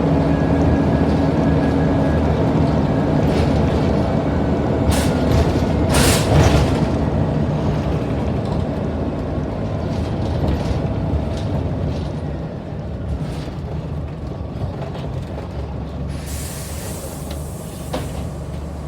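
Scania N94UD double-decker bus engine running steadily under way, with a few sharp knocks and rattles around five to six seconds in. The engine eases off about twelve seconds in, and a burst of air hiss follows near the end.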